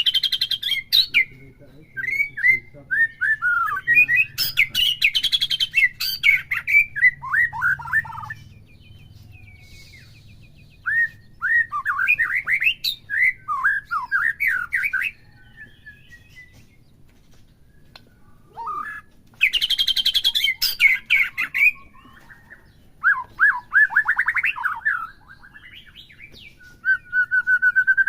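White-rumped shama (murai batu) singing in separate phrases of quick, varied whistled notes broken by harsh, rattling passages, with pauses of a few seconds between phrases. This is the kind of song played to provoke a captive shama into singing along.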